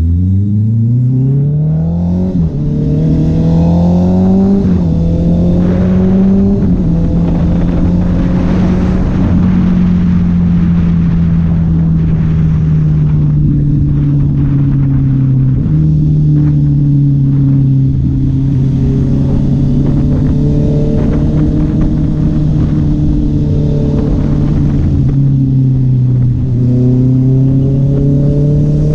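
Honda CB650R inline-four engine and exhaust pulling hard through the gears: the pitch climbs and drops back at each of three quick upshifts, then holds a steady cruise. The pitch steps down again about halfway through and rises once more near the end.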